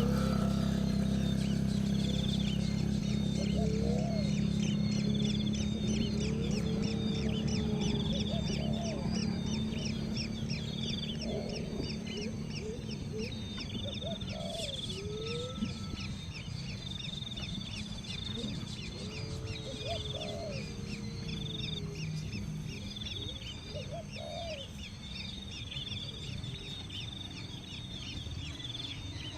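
Birds calling: short low gliding calls every couple of seconds over a dense, rapid, regular high chirping, with a steady low hum that fades away over the first half.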